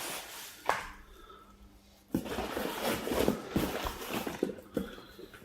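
Rustling and handling of packaging while a box is unpacked: a brief rustle, a single click, then about three seconds of dense crackling and crinkling from about two seconds in.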